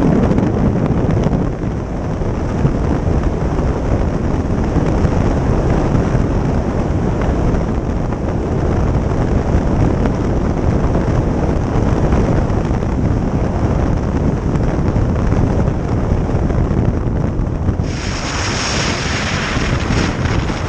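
Wind rushing over the microphone of a moving motorcycle, with road and engine noise underneath. A brighter hiss comes in near the end and runs for a couple of seconds.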